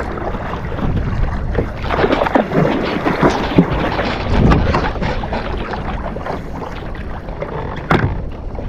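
Kayak being paddled at sea: water splashing and sloshing around the paddle and hull, with wind buffeting the microphone, and a sharp knock about 8 seconds in.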